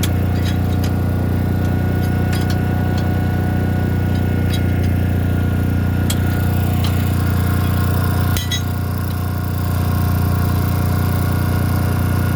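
An engine idling steadily, with sharp metallic clinks scattered through it. The engine note drops briefly about eight seconds in, then picks back up.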